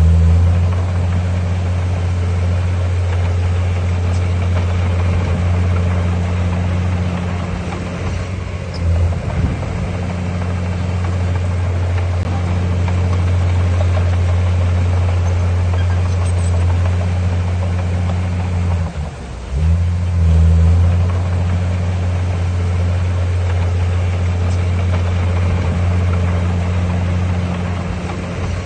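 Heavy diesel engine of earthmoving equipment running steadily with a low drone, dipping briefly about a third and two-thirds of the way through.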